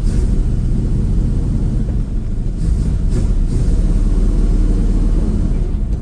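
Old carbureted Ford F-350 dump truck running and rolling along, a loud steady low rumble of engine and drivetrain.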